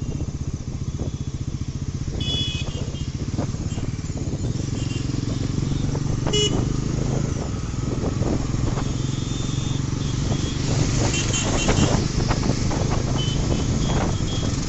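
Bajaj Pulsar NS400Z's single-cylinder engine running on the move, steady and slowly getting louder, with several short vehicle horn beeps from traffic.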